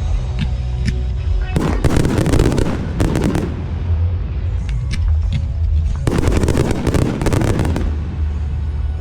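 Fireworks display: a constant deep booming from aerial shells, with rapid crackling salvos about a second and a half in, around three seconds, and again from about six to eight seconds. Music plays faintly underneath.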